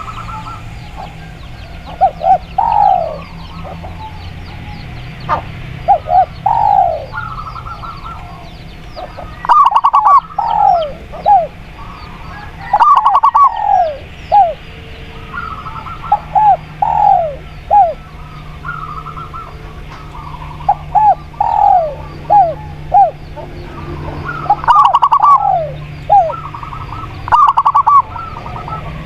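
Doves cooing in repeated phrases of short, falling notes, from a spotted dove (tekukur) and a zebra dove (perkutut). The phrases come every second or two over a steady low hum and faint high chirping.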